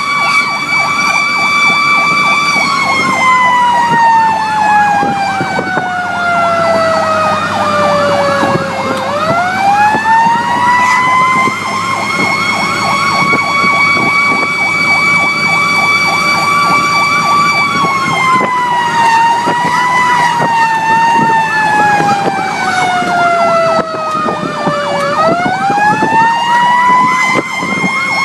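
Fire engine siren wailing: a loud tone that holds high, slides slowly down over several seconds and sweeps quickly back up, twice. A second, faster repeating siren pattern and the truck's engine run underneath.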